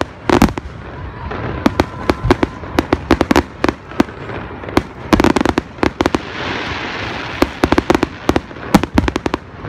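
Professional aerial fireworks display: shells bursting in rapid, overlapping bangs and cracks, with a stretch of hiss about six seconds in.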